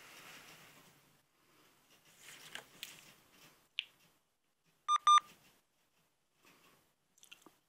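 Two short electronic beeps in quick succession about five seconds in, the loudest sound here, with faint scattered clicks and rustles around them.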